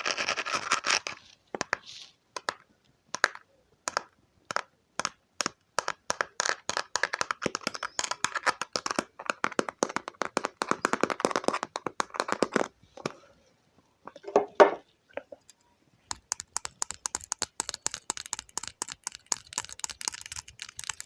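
Close-miked ear cleaning: an ear pick scraping, producing dense crackling and clicking in clusters, with short pauses between strokes.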